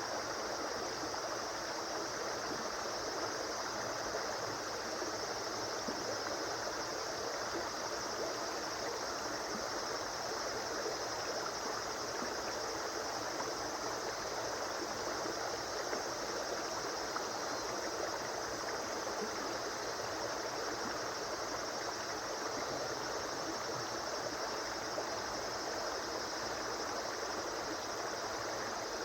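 A river flowing: a steady, even rush of water that does not change.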